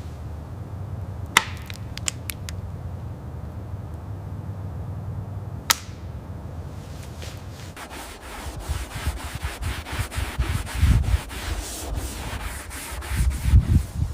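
Sanding on the helicopter's metal in rapid repeated strokes, which begin about seven seconds in and grow louder toward the end. They follow a low steady hum broken by a few sharp clicks.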